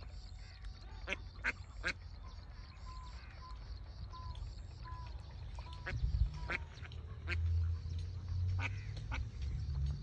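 Ducks quacking in short, scattered calls, with a run of short peeps in between.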